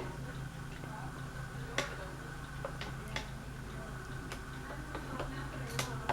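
Harbor Breeze Aristocrat ceiling fan running on low speed: a steady motor hum with scattered light ticks and clicks.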